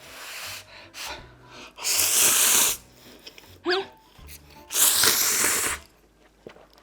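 Instant ramen noodles slurped loudly twice, each slurp lasting about a second, with a couple of shorter sucking slurps near the start.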